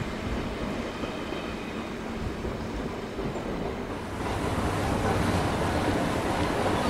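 Double-deck electric train running on the station track with a low rumble; about four seconds in, a louder, hissier rushing noise takes over.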